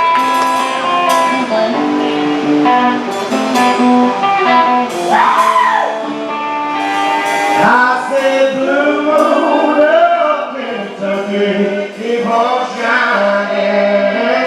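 Live band music: singing over guitar accompaniment, with held sung notes gliding up and down in the second half.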